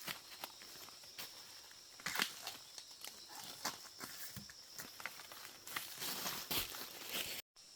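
Irregular rustling and crackling with scattered sharp clicks, louder about two seconds in and again near the end; the sound cuts out briefly just before the end.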